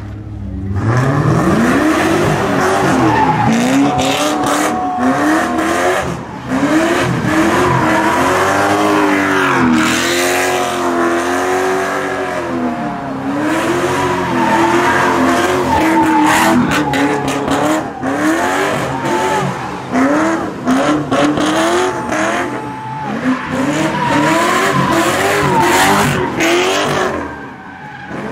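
Car engine revving up and down again and again, with tyres squealing: the sound of a car spinning donuts.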